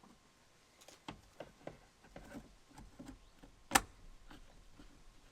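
Small plastic clicks and knocks, then one sharp, loud snap nearly four seconds in: new heated mirror glass being pushed onto the door mirror's adjuster mount and snapping into place.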